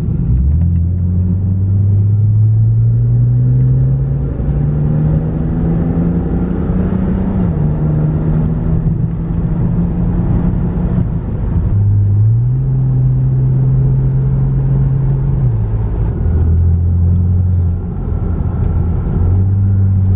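BMW 328i inline-six exhaust through a Magnaflow muffler, heard from inside the cabin while accelerating uphill. The engine note climbs in pitch for several seconds. It drops and rises again a few times as the gears change.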